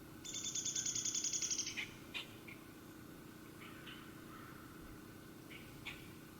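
A rapid, high, dry trill of evenly spaced notes lasting about a second and a half, followed by a few scattered short chirps, typical of a small songbird singing outdoors, over a steady low background hum.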